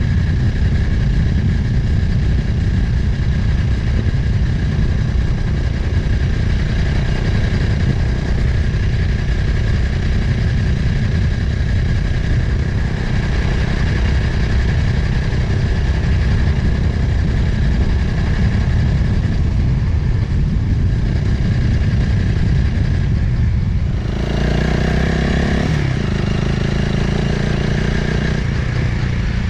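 Motorcycle engine running on the move under heavy wind noise on the microphone. About three-quarters of the way through, the engine note comes through clearly and rises, breaks off briefly and picks up again, as with a gear change.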